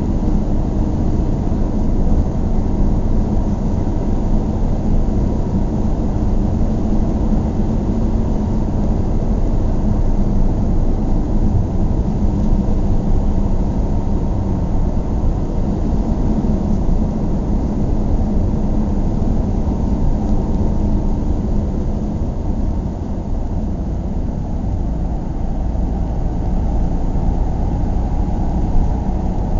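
A steady, unbroken low rumbling noise, most of it deep in pitch, with no sudden events.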